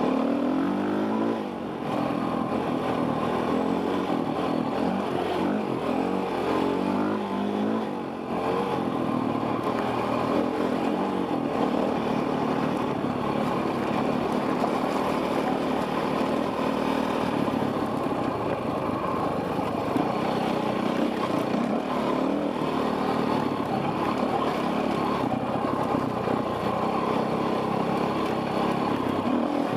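Enduro dirt bike engine revving up and down over and over as it is ridden off-road, its pitch rising and falling most in the first eight seconds and steadier after that.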